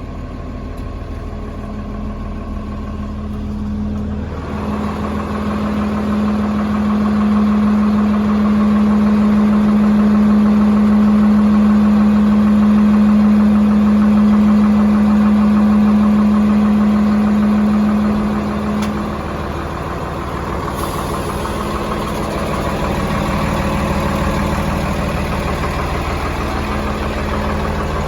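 Diesel engine of a 2010 Freightliner M2-106 dump truck running with a steady low hum. The hum grows louder a few seconds in, holds, and drops back about two-thirds of the way through.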